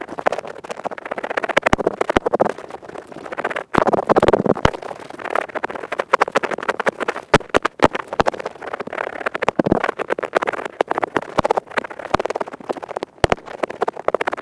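Earpick scratching fast and continuously in an ear-cleaning ASMR recording, a dense, crackly scraping full of sharp clicks.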